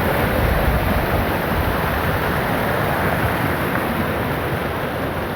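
Swollen floodwater rushing steadily in a river in spate, with wind buffeting the microphone.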